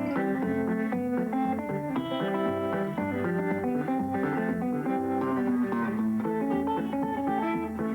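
Guitar played in the Muhlenberg County thumbpicking style: a steady alternating bass under a melody of quick picked notes.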